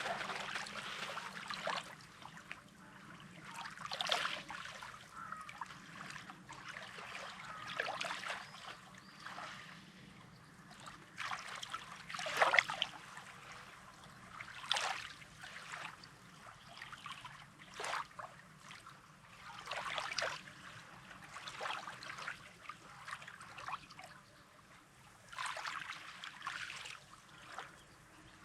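Small sea waves lapping and trickling over a rocky, pebbly shore, a soft wash rising and falling every two to three seconds.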